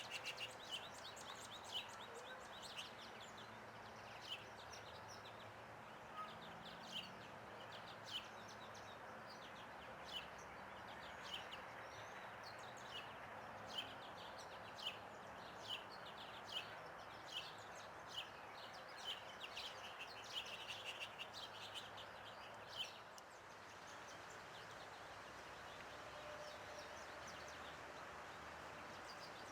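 Small birds chirping, short sharp chirps about once or twice a second over a steady background hiss; the chirping stops about three-quarters of the way through.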